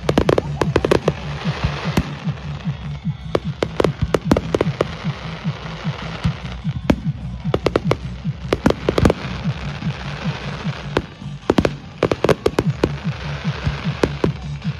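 Fireworks display: a dense, irregular barrage of sharp bangs and crackles, several a second. The bangs are thickest near the start and again around the middle.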